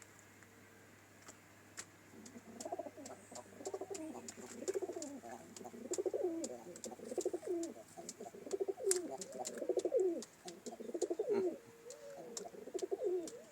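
Pigeons cooing in repeated warbling phrases that start a couple of seconds in and run almost to the end, with light clicks throughout.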